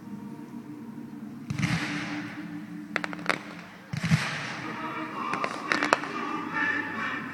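Fireworks going off: two booms with a rushing tail about a second and a half and four seconds in, and sharp cracks around three and six seconds in, over music playing.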